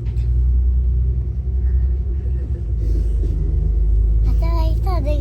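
Steady low rumble of a moving passenger train, heard from inside the carriage. A high voice, likely a child's, starts near the end.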